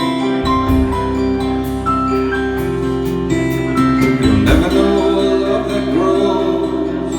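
Live band playing an instrumental passage between verses: guitar chords with bass and a melody line of single notes over them.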